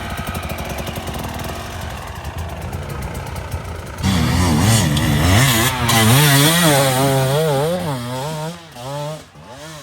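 Off-road motorcycle engine, first a low pulsing rumble, then from about four seconds revving hard, its pitch swinging up and down again and again as the throttle is worked, before dying away near the end.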